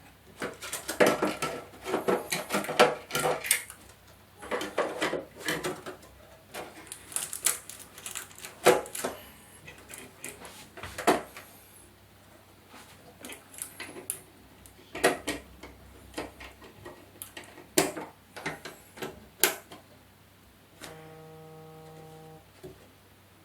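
Clattering, clicking and tapping of hard plastic and metal TV parts being handled during an LED backlight bar replacement, with a short steady buzzing tone about two seconds before the end.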